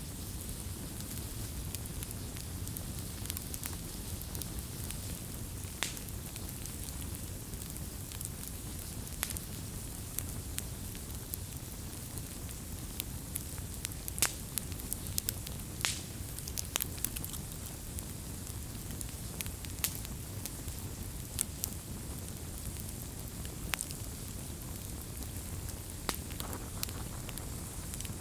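Wood bonfire burning: a steady low rush of flames with irregular sharp crackles and pops.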